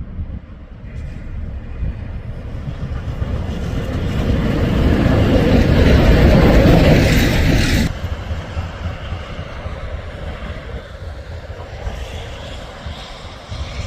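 Railway locomotive or train passing: a loud rumble that builds for several seconds, drops suddenly a little past halfway, then carries on as a lower, steady rumble.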